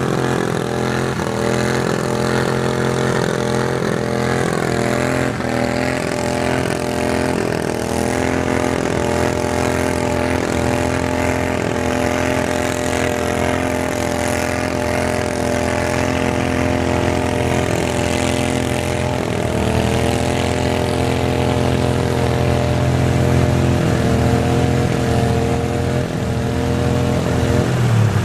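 Garden tractor engine running steadily, with a small shift in pitch about two thirds of the way through and a little louder near the end.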